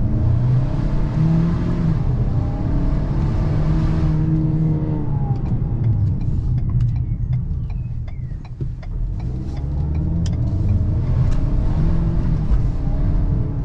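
Ford Maverick's 2.0-litre EcoBoost turbocharged four-cylinder engine pulling under acceleration, its pitch rising. About five seconds in it falls away to a quieter stretch with scattered knocks, then it builds again near the end.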